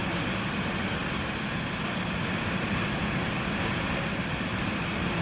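Boeing 737 jet engines running, a steady rumble with a thin high whine held over it.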